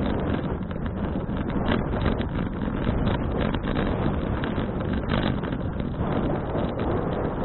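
Steady wind buffeting an action camera's microphone while cycling, a dense rushing noise strongest in the low end.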